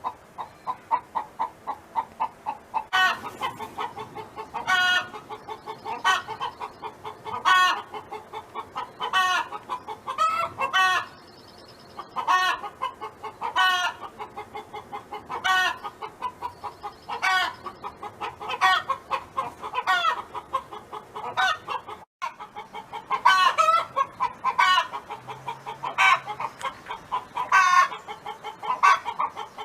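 Domestic hen clucking in a rapid run of short clucks, with a louder, drawn-out call about every one and a half to two seconds: the repetitive hen song. The clucking breaks off sharply for an instant about three quarters of the way through, then resumes.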